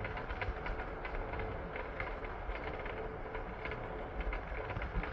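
PATH train car running along the track: a steady low rumble with light, irregular rattling clicks.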